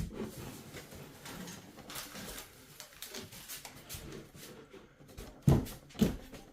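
Wooden hive frame parts being handled on a table: light scraping and clicking, a sharp knock at the start and two heavier thumps about half a second apart near the end.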